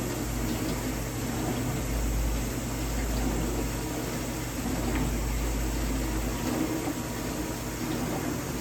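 Vintage dishwasher running its wash cycle: the pump motor hums steadily while water sloshes and sprays inside the tub, with a deeper rumble swelling from about two seconds in until near the end. The owner suspects the pump is restricted, since the water no longer hits the tub at full force.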